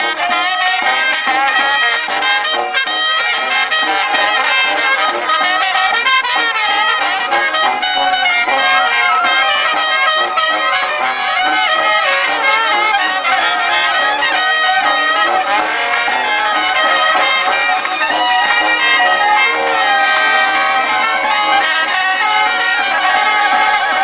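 Live band music led by brass instruments, playing a melody with sustained notes and no pauses.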